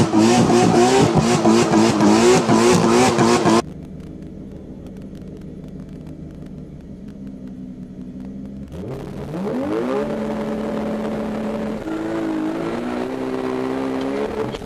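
Tuned car engine running loud with revs swinging up and down, cut off suddenly a few seconds in. A quieter, steady engine note follows, rising in pitch about nine seconds in, holding, then stepping up again near the twelve-second point.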